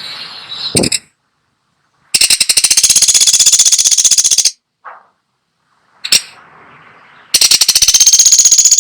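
Woodpecker giving two long, rapid rattles of about two seconds each, the second starting about seven seconds in, with sharp single notes and softer chatter between them.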